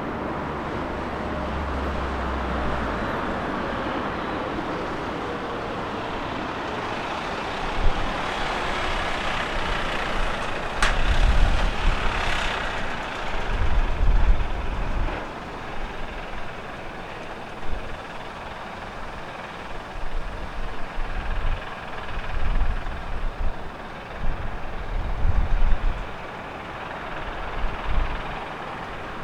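Boeing 777 jet engines passing on landing, a steady loud roar with a faint falling tone in the first few seconds. From about ten seconds in, strong crosswind gusts buffet the microphone in repeated low rumbling bursts, with a sharp click or two.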